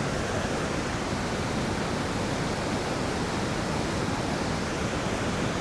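River rushing over rocks: a steady, even wash of water.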